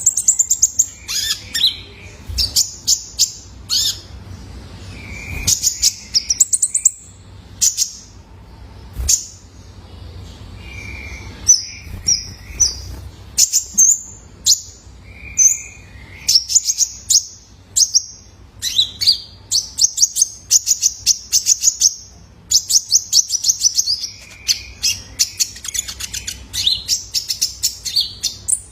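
Young male konin (kolibri ninja) sunbird chirping and twittering: rapid runs of high, sharp notes and short trills, broken by brief pauses and a few lower notes.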